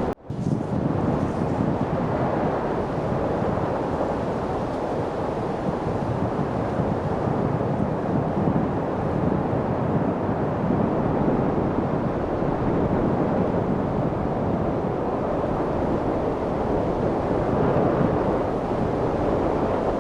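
Steady wind noise, an even rushing with no single gust standing out. It cuts out for a split second at the very start.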